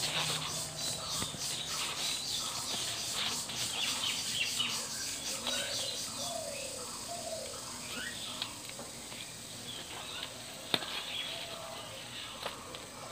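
Birds chirping over and over, with a few sharp clicks, the loudest about eleven seconds in.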